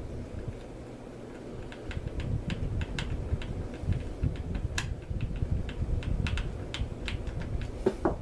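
Light, irregular metal clicks and taps as a small screw is put into a baitcasting reel's side plate with a screwdriver and the reel's parts are handled, over a low rumble of handling. The clicks start about two seconds in, with one sharper tick near the middle.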